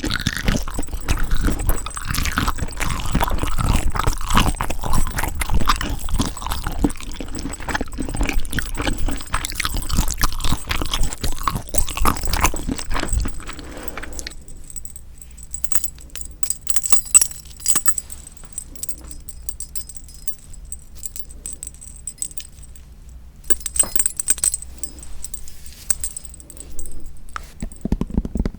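Close-miked eating sounds of spicy marinated raw shrimp: dense wet clicking, squishing and chewing. About halfway through it drops to quieter scattered clicks, then picks up again near the end.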